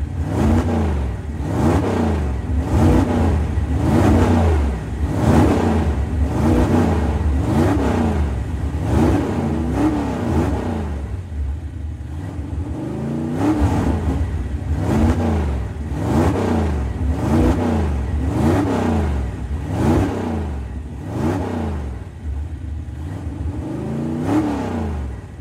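A motor vehicle's engine repeatedly revving up and dropping back, its pitch rising and falling about once a second over a steady low rumble.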